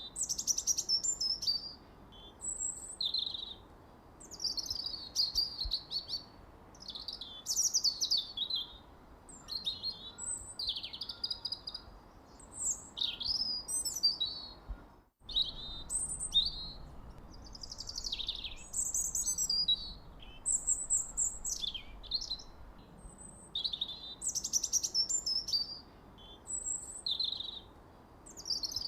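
Songbirds chirping and singing steadily, a run of short high chirps and quick falling phrases, several calls overlapping. About halfway through the sound briefly drops out for a moment.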